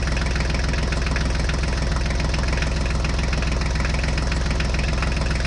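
Small engine running steadily at idle with an even, rapid chug that does not change.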